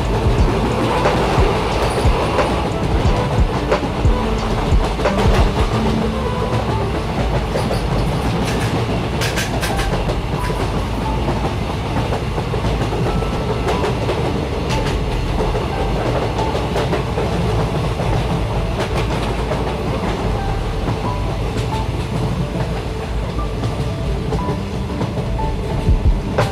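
A train running on rails: a steady rumble with scattered clatter from the wheels.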